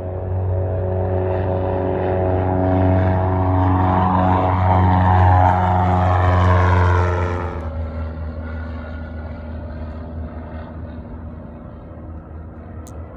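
Propeller-driven light aircraft passing close by, its engine and propeller drone building to a peak. The higher notes drop away suddenly about two-thirds of the way through, leaving a fading low rumble.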